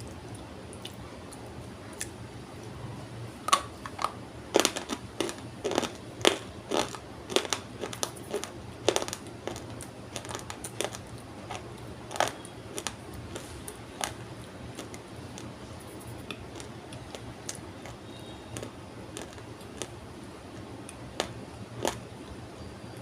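Dry multani mitti (fuller's earth) clay being bitten and crunched: a run of sharp, brittle crackles, thick through the first half, then thinning to a few scattered crunches, with two more near the end.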